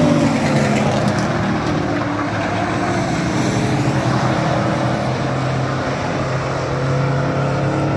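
Racing truck engines running loudly and steadily, with one engine note falling in pitch in the first second as a truck passes.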